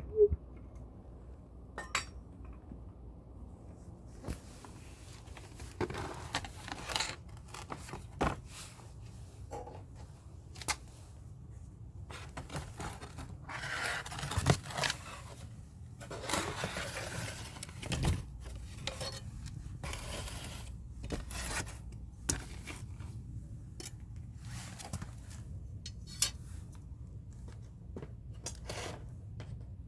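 Objects being handled by hand: irregular metal clinks, knocks and scrapes, with stretches of rustling in between, over a low steady hum.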